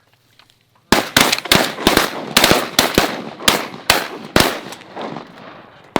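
A rapid volley of shotgun blasts from several hunters firing at once, about a dozen shots in under four seconds starting about a second in, each followed by a short ringing decay.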